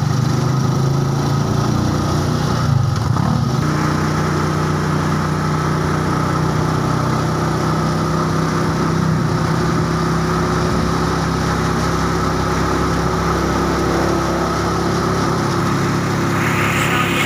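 Small motorcycle engine of a tricycle (motorcycle with sidecar) running steadily under way, heard from inside the sidecar. Its note changes once, about three and a half seconds in, then holds steady.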